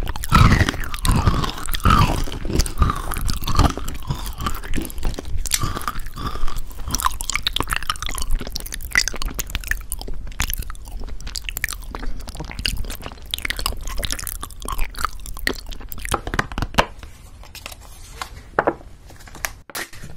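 Close-up crunchy chewing: a dense run of crisp crunches and mouth clicks, loudest in the first few seconds and thinning out near the end.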